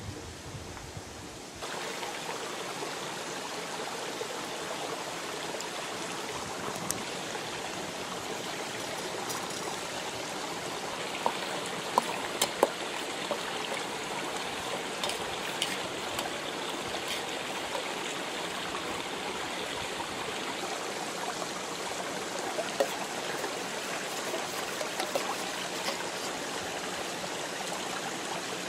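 A stream running steadily, with a few sharp clicks about eleven to thirteen seconds in and one more near twenty-three seconds.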